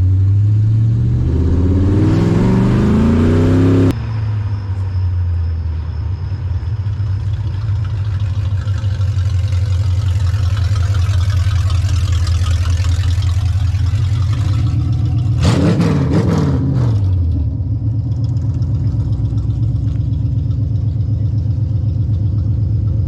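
V8 engine in a 1969 Plymouth Valiant accelerating under way. The revs climb for about four seconds and drop suddenly at a gear change, then the engine runs steadily, with a brief rise and fall in revs about two-thirds through.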